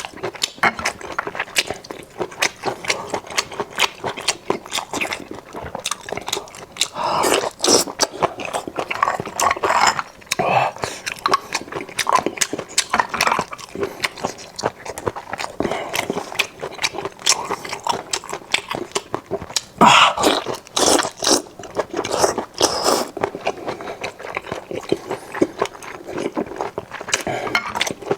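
Close-miked eating sounds: wet chewing, lip smacks and sucking clicks as a person eats honey-glazed sea snails, in a dense run of short smacks with louder bursts now and then.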